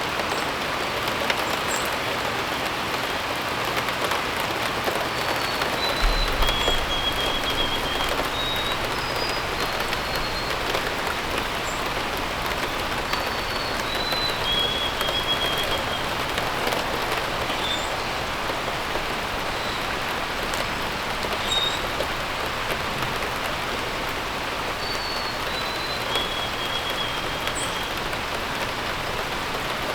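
Steady rain falling, with a bird singing a short phrase of descending notes three times, about every ten seconds, and a few brief high chirps.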